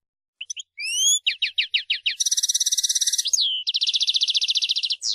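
European goldfinch singing one phrase. It opens with a few short high notes and a rising slurred note, then a quick run of falling notes, then two fast buzzy trills split by a short note, and it ends on a falling note.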